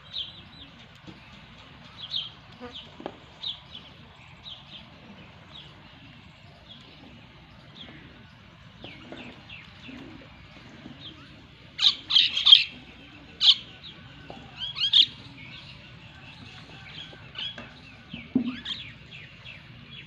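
Small birds chirping in short, high notes scattered throughout, with a louder run of calls a little past halfway.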